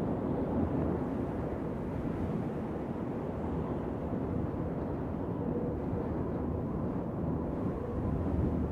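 Steady wind, a dense low noise with little high-pitched hiss and no gusts standing out.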